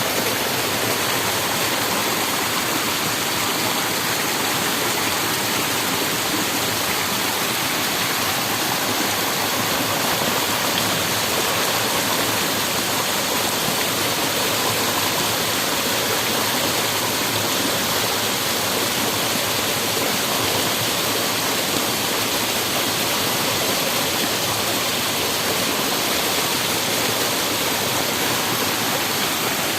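Waterfall, a steady rush of falling water that stays even throughout.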